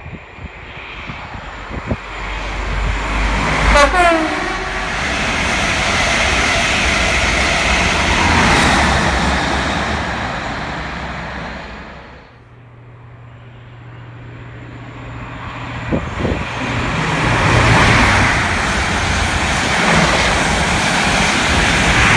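An express passenger train running through the station at speed, with a loud rushing noise. About four seconds in, its horn sounds briefly, the pitch falling as it goes by. After a sudden drop about twelve seconds in, a second fast train approaches and rushes past.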